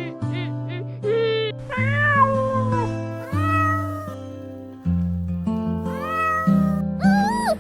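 Cat meowing over background music: four long meows that rise and then fall in pitch, sung over steady held chords.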